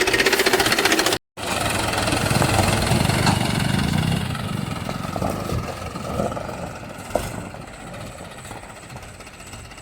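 Mahindra tractor's diesel engine running with a fast, even knocking beat. The sound drops out for an instant about a second in, then the engine carries on and slowly fades.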